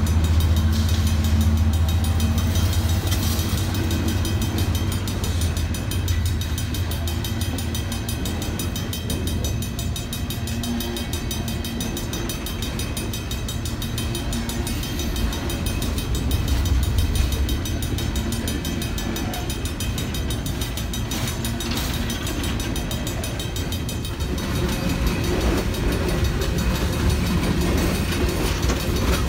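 Train passing: a diesel locomotive's engine drone for the first few seconds, then the steady rumble of railcars rolling along the rails.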